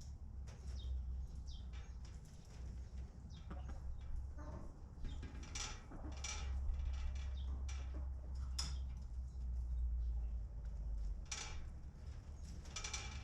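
Chickens in a henhouse, with scattered short clucks, chirps and taps over a low steady rumble.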